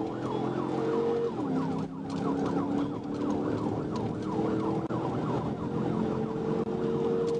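Emergency vehicle siren in a fast yelp, about four falling sweeps a second, over a steady lower tone that drops in pitch about a second in.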